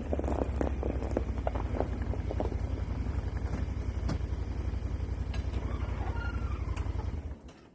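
An engine running with a low, even throb, with a few knocks and rattles in the first couple of seconds. The engine stops suddenly about seven seconds in.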